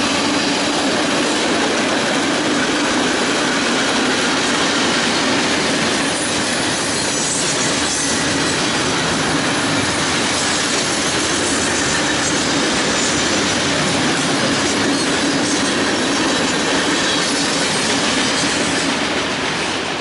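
Freight train cars (tank cars, then gondolas) rolling steadily past, their steel wheels running over the rails in a continuous rumbling clatter.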